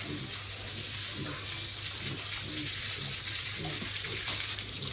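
Steady hiss of running water, as used to wash down a sow, with faint voices underneath.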